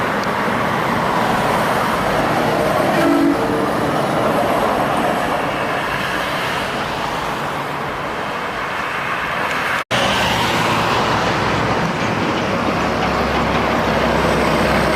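Steady road traffic noise from trucks and cars passing, with tyre and engine noise; the sound cuts out for an instant about ten seconds in.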